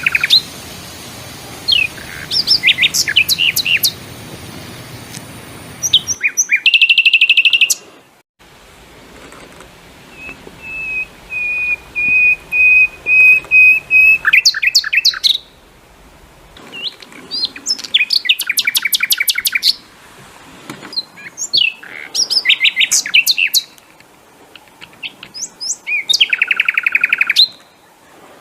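Songbirds singing in loud bursts of rapid, high chirping trills and whistled notes, repeated every few seconds. A long, even high trill runs from about 10 to 15 s in.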